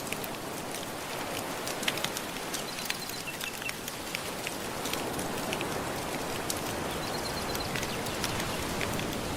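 Ocean waves washing steadily on the shore, with a wood fire crackling over it in many sharp little pops; the surf swells a little louder after the middle.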